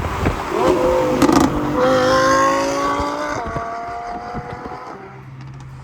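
Car engine revving hard as the car accelerates away, its pitch climbing, with a break in the pitch about three and a half seconds in, then fading into the distance.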